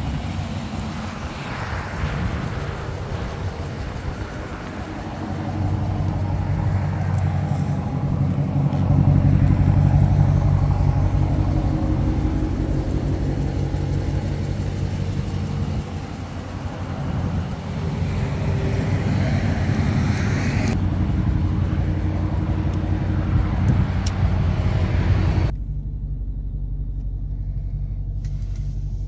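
Dodge Charger R/T's 5.7-litre HEMI V8 idling steadily with a low, even hum, a little louder for a few seconds near the middle. Near the end the sound turns muffled, heard from inside the cabin.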